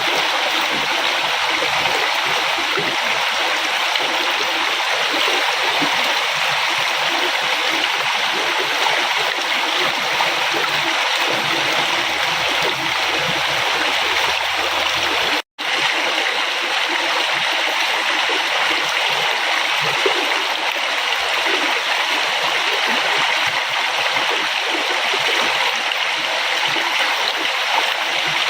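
Steady rush of flowing river water, with a split-second cut to silence about halfway through.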